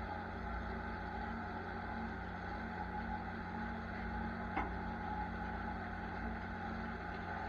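A farm vehicle's diesel engine running steadily at a constant speed, with a single short click about four and a half seconds in.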